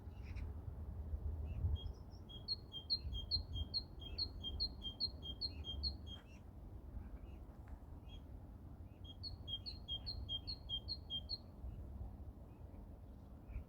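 A songbird singing two phrases, each a quick run of the same two-note figure repeated about twice a second, with a pause of a few seconds between them.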